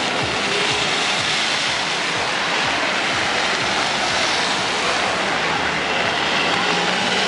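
Heavy rain falling on a city street, a loud steady hiss, with traffic passing on the wet road.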